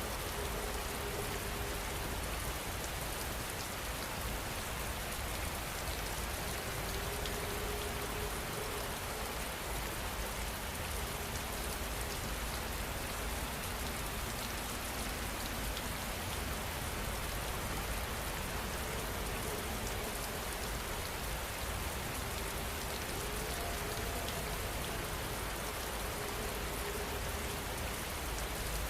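Rain falling steadily on a surface: an even hiss of many drops that holds the same level throughout.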